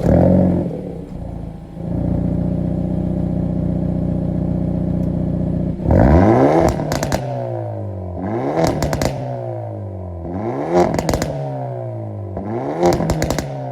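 Hyundai i30 N's turbocharged 2.0-litre four-cylinder starting with a flare, then settling to a steady idle. From about six seconds in it is revved four times, each rev falling back with crackles and pops from the exhaust.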